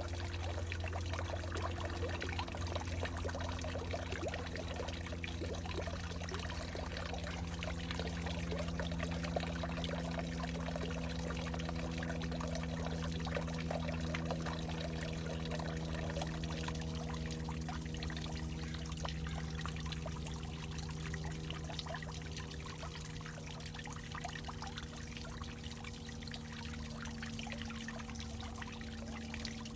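Water pouring and trickling into a hollowed-out tree trunk, with several steady low tones held under the splashing.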